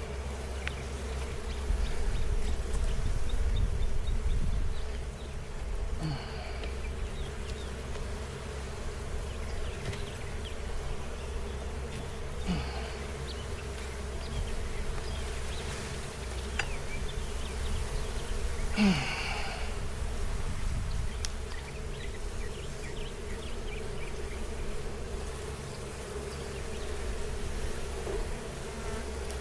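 A colony of honey bees buzzing in a steady hum around an open hive. A few short knocks break in, the loudest about two-thirds of the way through, and a louder low rumble lasts a few seconds near the start.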